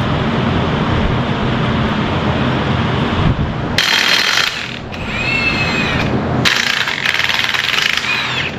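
A power tool running in two bursts, the first under a second long and the second about two seconds, with a fast rattling; a steady low hum comes before them.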